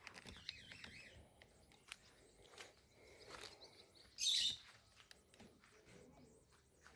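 Faint bird chirps, with a short, louder, harsh burst about four seconds in.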